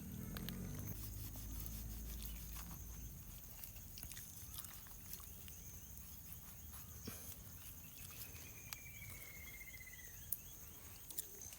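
Riverside forest ambience: a steady high-pitched insect drone, with a short falling trill of rapid notes about eight seconds in and scattered faint clicks.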